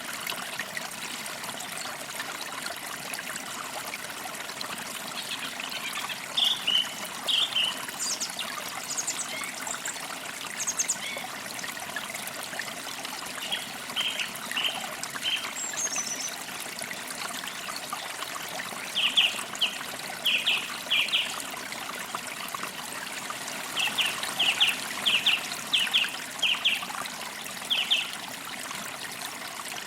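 Forest creek trickling steadily, with birds chirping over it in short bursts of quick, high chirps that come several times, the busiest runs in the second half.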